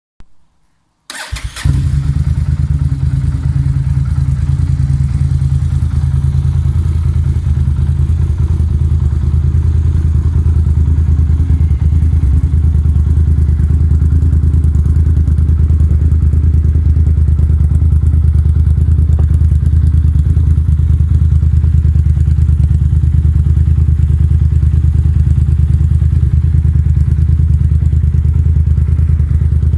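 Yamaha TDM 900 parallel-twin engine starting about a second in, then idling steadily through a Roadsitalia exhaust with a deep, even beat.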